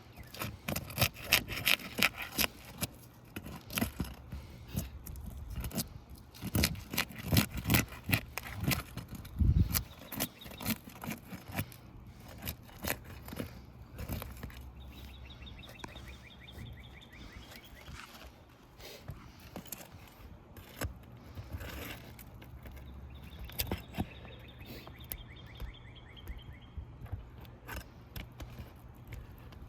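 A metal pry bar working under asphalt roof shingles, breaking their seal and prying up roofing nails: repeated scrapes, clicks and knocks, densest in the first dozen seconds, with two rattling, squeaky scrapes lasting a few seconds each near the middle and toward the end.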